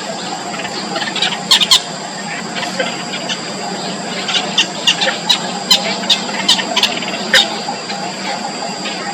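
Four-day-old nestling birds cheeping: short, sharp, high peeps, a quick cluster about a second and a half in and a run of them from about four and a half to seven and a half seconds, over a steady low hum.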